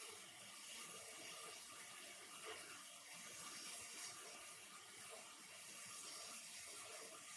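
A steady, even hiss like running water, with no distinct knocks or changes.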